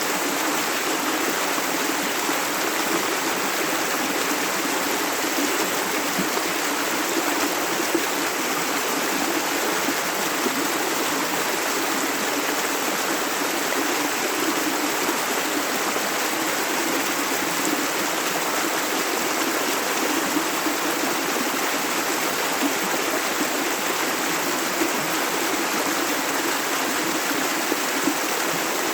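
Shallow river running, a steady rush of flowing water with a continuous babble and no breaks.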